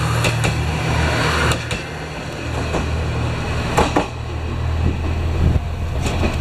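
Train passing over a level crossing, heard from inside a car: a steady low rumble with sharp wheel clacks about once a second.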